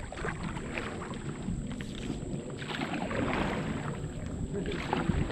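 Canoe paddle strokes swishing and splashing through river water, swelling about three seconds in and again near the end, with a few light knocks.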